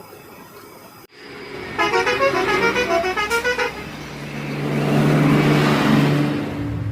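A bus's musical horn sounds a short tune of stepped notes, followed by a steady low drone under a swelling rush of noise.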